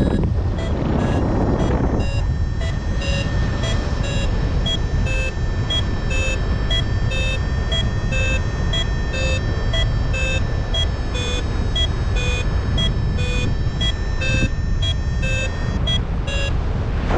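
Paragliding variometer beeping in short pitched pips about two to three times a second, its climb tone signalling that the glider is rising in lift. Under it runs a steady rush of wind on the microphone, and the beeping stops shortly before the end.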